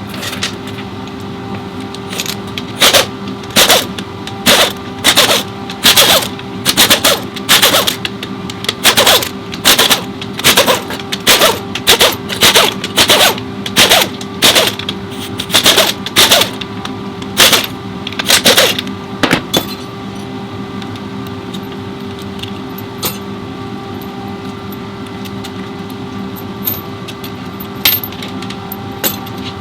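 Repeated sharp metallic strikes or short bursts from tool work on a transmission, about one every second for some seventeen seconds, over a steady workshop hum. A few faint ticks follow.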